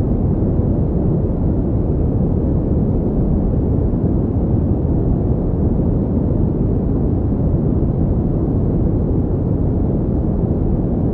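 Continuous pink noise: a steady, even rushing hiss weighted toward the low end, with no change in level or character.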